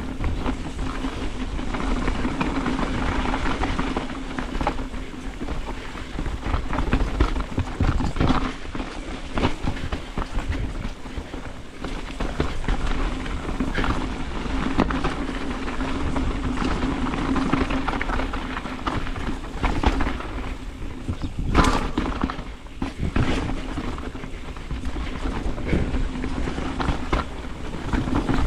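Ibis Ripmo carbon mountain bike descending a rough, wet trail at speed: a steady rush of tyres and wind with frequent knocks and rattles as the wheels hit roots and rocks, with a harder burst of hits about 21 seconds in.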